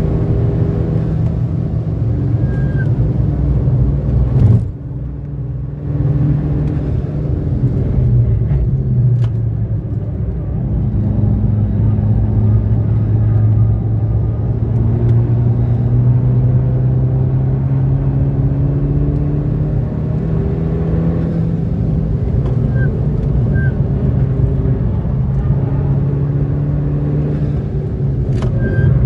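Skoda Octavia RS engine and road noise at speed, heard from inside the cabin. A sharp click and a brief drop in engine sound come about four and a half seconds in as the car comes off the power for a bend. The engine then pulls again, its pitch rising slowly as the car accelerates.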